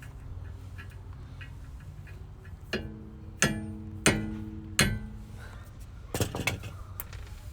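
Hammer blows on steel suspension parts: four sharp strikes roughly two-thirds of a second apart, each leaving the metal ringing, then a few quicker knocks near the end, over a low steady hum.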